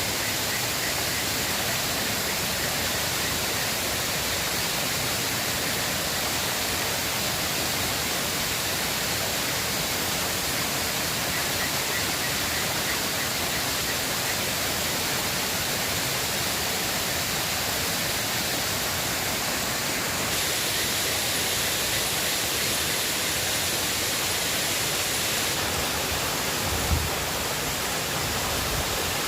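River water rushing steadily. There is faint high chirping in places and a single dull thump near the end.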